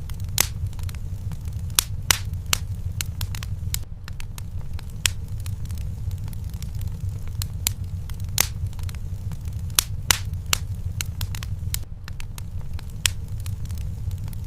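Fire burning in a fireplace: a steady low rumble of flames with irregular sharp crackles and pops, and a few louder snaps scattered through.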